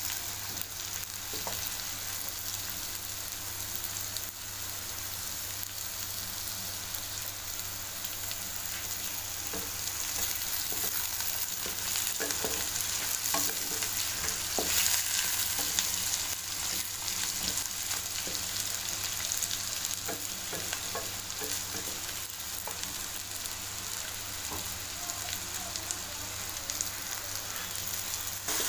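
Cubed potatoes and sliced onions sizzling in hot oil in a steel karahi, with a spatula scraping and knocking against the pan as they are stirred. The sizzle swells for a few seconds midway.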